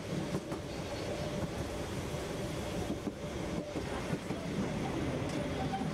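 Carriage of a diesel-hauled, metre-gauge Harz narrow-gauge train in motion: a steady rumble and rattle of wheels on rail, with a faint steady hum and a few scattered knocks from the track.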